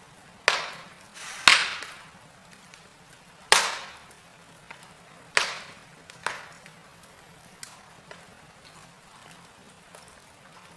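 Wood fire burning in a fireplace, crackling with sharp pops at irregular intervals of one to two seconds, the loudest about one and a half seconds in, and a few smaller ticks between them over a faint steady hiss.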